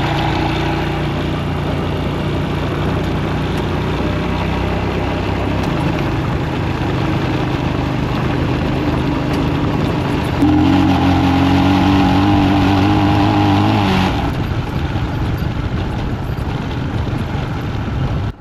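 Royal Enfield Himalayan single-cylinder motorcycle engine running at riding speed over a steady rush of wind and road noise. About ten seconds in the engine note turns louder and higher for some three seconds, then settles back.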